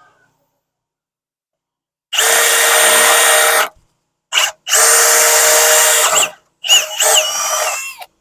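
Power drill run in four bursts: about a second and a half, a short blip, another second and a half, then about a second more with the motor pitch wavering as the trigger is eased.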